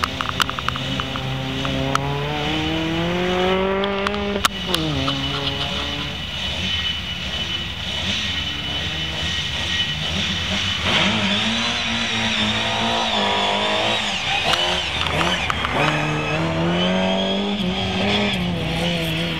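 Rally car engines revving hard under acceleration, the pitch climbing and then dropping sharply at each gear change: one run in the first few seconds and another from about halfway.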